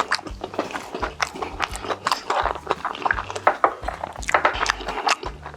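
Close-miked eating sounds: a quick, irregular run of wet chewing and mouth clicks as a mouthful of food is eaten.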